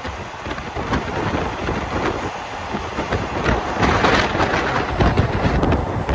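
Passenger train running along the line, heard from on board: a steady rumble of wheels on rail with wind buffeting the microphone, and a louder rush about four seconds in.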